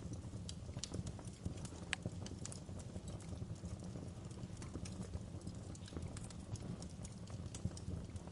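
Fire in a fireplace crackling: irregular sharp pops and snaps over a steady low rumble, with one louder pop about two seconds in.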